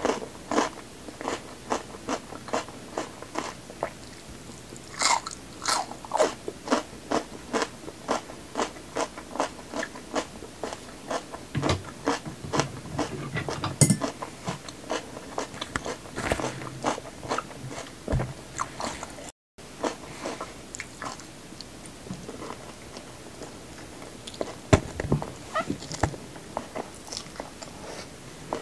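Close-miked crunching of raw red bell pepper being bitten and chewed: quick crisp crunches about three a second. About two-thirds through the sound cuts out for a moment, and after it the chewing is sparser and softer.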